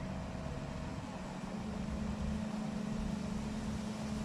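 Engine running steadily with a low, even hum, which grows a little stronger about a second and a half in.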